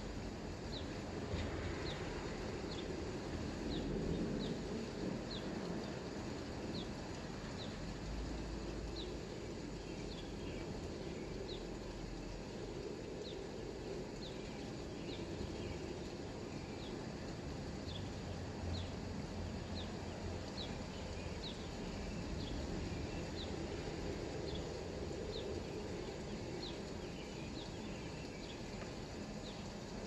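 A bird repeating a short, high, falling chirp about once a second, over a steady hiss of rain.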